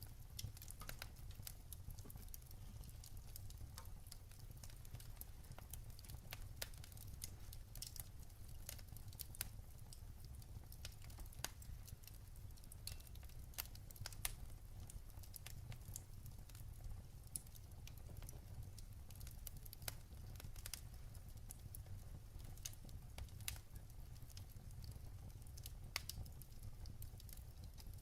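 Wood fire burning in a fireplace: irregular small crackles and pops, scattered unevenly throughout, over a steady low rumble.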